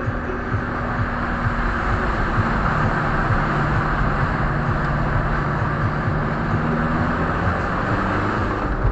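A motor vehicle running, with a steady rushing noise over a low engine hum that drops in pitch about two and a half seconds in.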